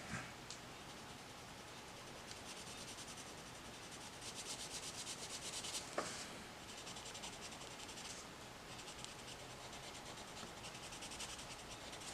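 Coloured pencil scratching on paper in runs of rapid, even back-and-forth shading strokes, with a single light tap about halfway through.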